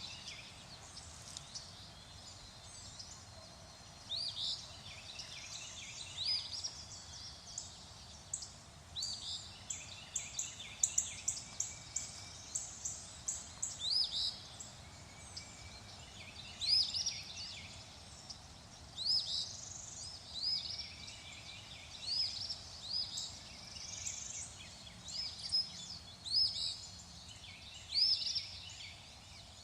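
Birds calling: many short, high chirps repeated again and again, with a quick run of them about ten to fourteen seconds in, over a faint steady background hiss.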